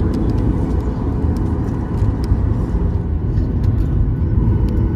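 Cabin noise inside a Boeing 737-800 before takeoff: a steady low rumble from the running CFM56 engines and airframe, with faint light clicks and rattles over it.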